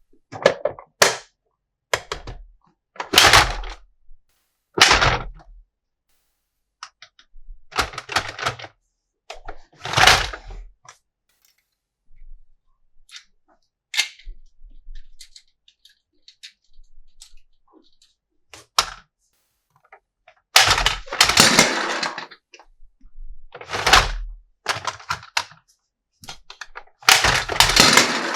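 Plastic toy parts and packaging being handled: irregular clicks, knocks and short rustles, with a few longer stretches of rustling.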